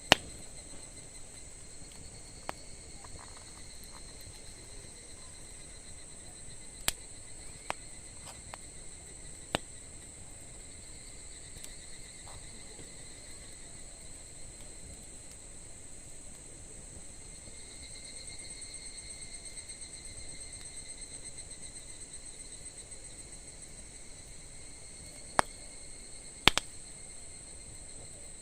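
Campfire burning with a handful of sharp pops of burning wood, several in the first ten seconds and two close together near the end, over steady high-pitched insect chirping.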